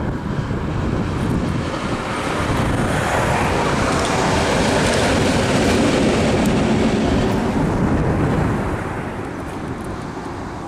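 A train passing by, a rushing rail noise that builds, is loudest about halfway through and then fades away.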